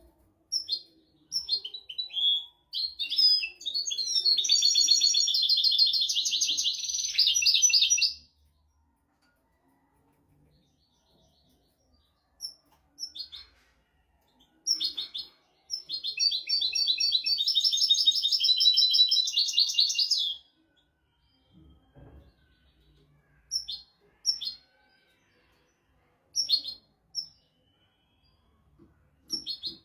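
European goldfinch singing: short chirps, then a long, rapid, trilled phrase a few seconds in and another about halfway through, with scattered single chirps between and after.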